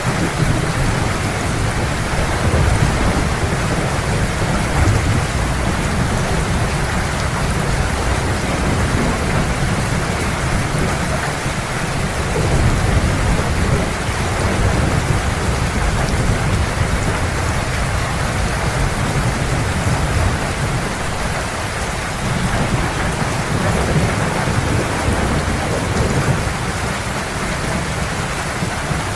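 Heavy rain falling in a steady, dense hiss, with a continuous low rumble of thunder beneath it that swells slightly a few times.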